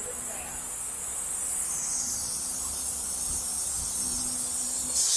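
A steady high-pitched hiss that grows louder from about two seconds in, then jumps suddenly to a much louder hiss right at the end.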